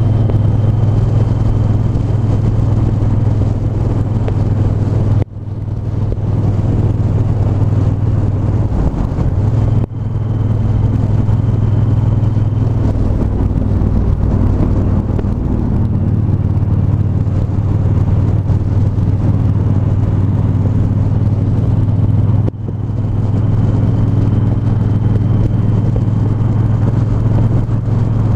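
Triumph 1200 cc parallel-twin motorcycle engine running under way on a ride, its steady low note dipping briefly three times, about five, ten and twenty-two seconds in.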